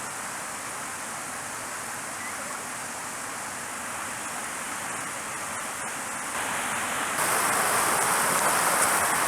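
Mountain stream water rushing over rocks, a steady hiss that grows louder in two steps about six and seven seconds in.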